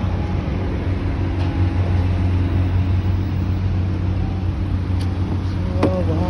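Steady car road noise heard from inside a moving car, with a low engine and tyre hum running throughout.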